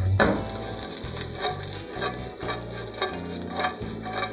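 Dried anchovies sizzling in a little hot oil in a nonstick frying pan, toasting. A wooden spatula stirs them, with repeated scraping strokes about twice a second.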